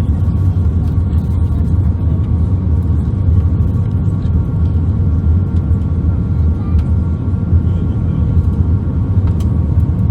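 Steady low rumble inside the cabin of an Airbus A319-131 airliner, with a few faint light ticks.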